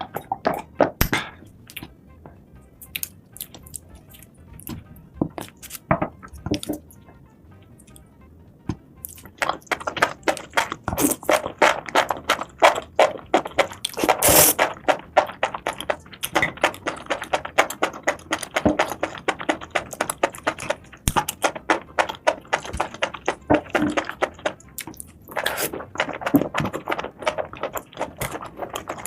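Close-up eating sounds: irregular crunching, clicking and chewing of seafood, sparser for a few seconds near the start and then dense, over background music.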